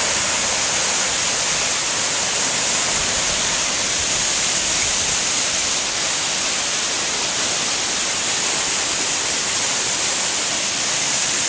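Waterfall pouring close by: a steady, unbroken rush of water with a strong high hiss.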